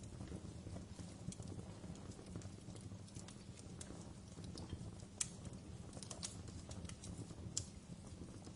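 Wood fire burning in a fireplace: a steady low rumble with irregular crackles and pops, the sharpest about five seconds in and again near the end.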